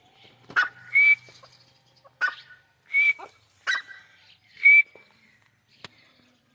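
A francolin (teetar) calling: a repeated phrase of a sharp, clipped note followed by a clear, rising whistled note, given three times about every 1.7 seconds.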